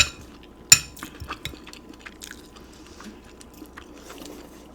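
Eating a bowl of pozole: two sharp, ringing clinks in the first second, then a few smaller clicks and quiet chewing.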